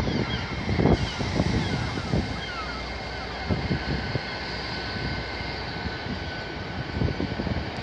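GWR Hitachi Class 800 train moving slowly out of the platform, with a rumble of wheels and thin high squealing tones from the wheels on the curving track. Gusts of wind buffet the microphone.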